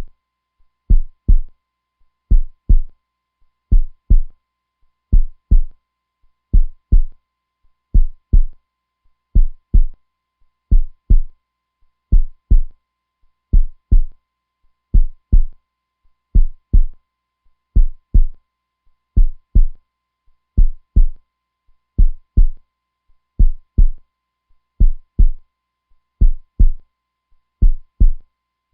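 Heartbeat sound: a steady run of low double thumps (lub-dub), one beat a little less than every second and a half.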